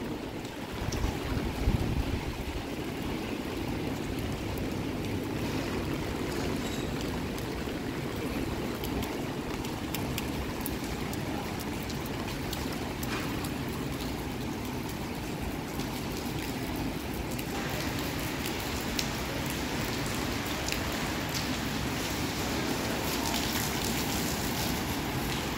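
Steady rain falling and splashing on wet pavement, with water trickling and dripping. A few gusts of wind hit the microphone in the first two seconds.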